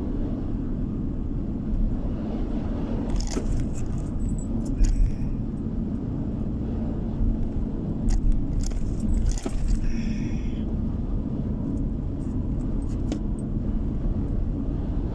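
Steady low road and engine rumble of a car driving, with a few bursts of light clicking and jingling about three seconds in and again around eight to ten seconds in.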